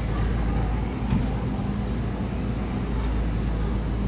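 Excavator's diesel engine running steadily, a low drone with a brief knock about a second in.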